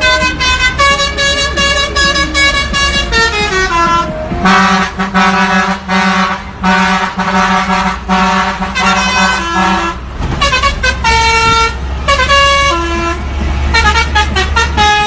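Truck air horns blowing a run of loud pitched notes that step up and down like a tune, over the steady low drone of a truck engine.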